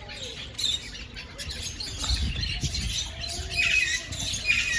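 Parrots in an aviary chirping and squawking, short scattered calls overlapping from several birds. A low rumble sits underneath about two seconds in.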